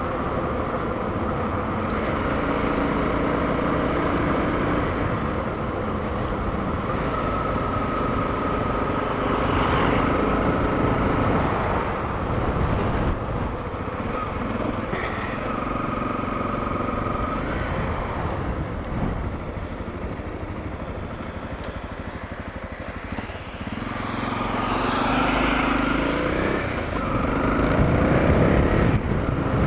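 Honda CRF250L's single-cylinder four-stroke engine running under way, with wind and road noise. Its pitch shifts up and down as the bike speeds and slows, and it climbs and grows louder near the end as the bike accelerates.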